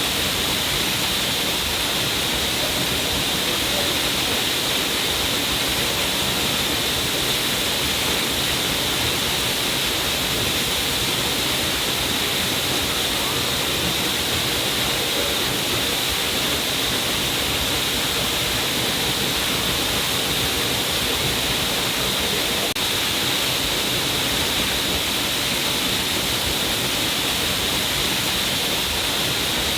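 A stream of water pouring down a cliff face, a steady, even rush of falling and splashing water.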